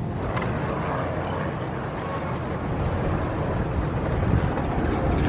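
Steady rumble of wind and road noise while riding an electric kick scooter, growing a little louder toward the end.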